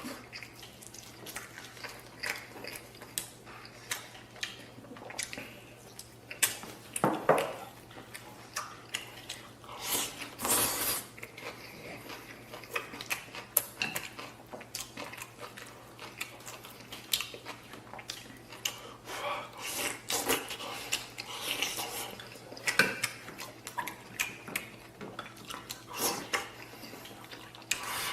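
A person eating from an iron pot of spare-rib stew: chopsticks and dishes clink and knock irregularly, with some biting and chewing.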